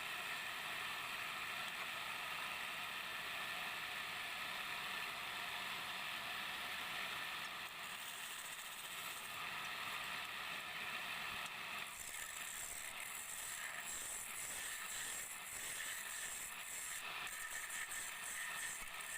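Wood lathe spinning while a hand turning tool cuts the wood, a steady scraping hiss. About twelve seconds in it turns rougher, with a run of quick small ticks and clatter.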